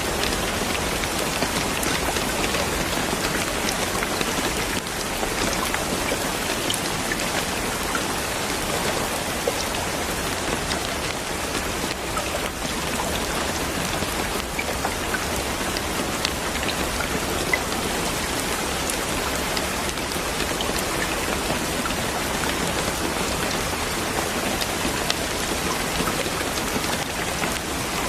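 Steady, even rain with many scattered drops ticking on a surface.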